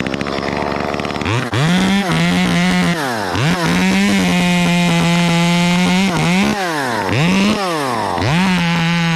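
Two-stroke chainsaw run at full throttle in repeated bursts while cutting limbs. The engine note climbs to a steady high-pitched run, holds, then falls back toward idle, about four times.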